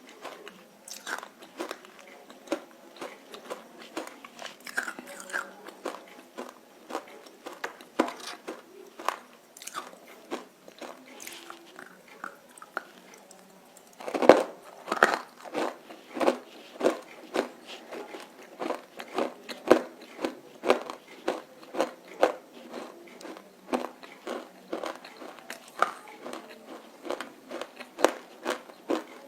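Close-up crunching and chewing of roasted nakumatt edible clay, with many crisp bite snaps. The bites come faster and louder from about halfway through.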